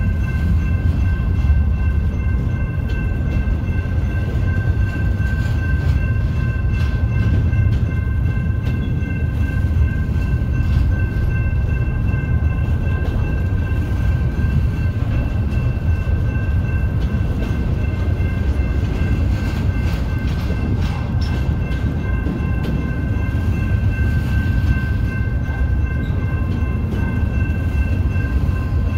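Intermodal freight train rolling past: a steady low rumble with a thin, steady high-pitched whine over it and occasional faint clicks.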